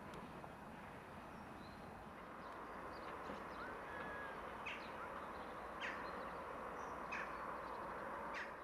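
Outdoor ambience with a steady low hiss, and birds calling: a short whistle near the middle, then four short sharp calls about a second apart.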